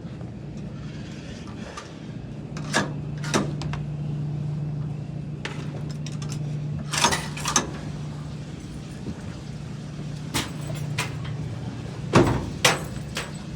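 Scattered knocks and clicks, about seven, the loudest near the end, as clothes are pushed into a front-loading washer drum, over a steady low hum of laundromat machines.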